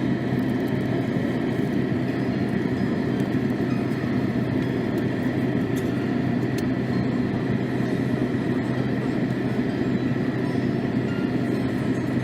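Steady mechanical rumble with a constant hum, unchanging throughout, like the noise inside a vehicle.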